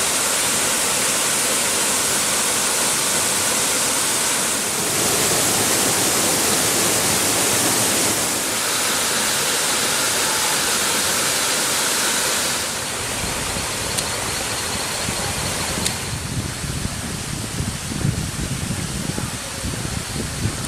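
Waterfall rushing steadily as a loud, even hiss of falling water. About 13 s in the sound turns softer and lower, with uneven low rumbling gusts of wind on the microphone over the water.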